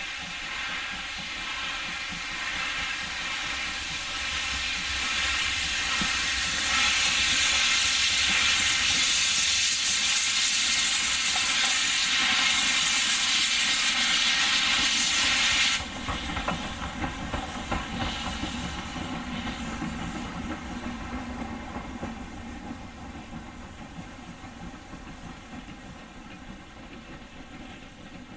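Steam locomotive letting off a loud hiss of steam that builds over several seconds and stops abruptly about sixteen seconds in. After that, the lower rumble and clatter of the train slowly fade.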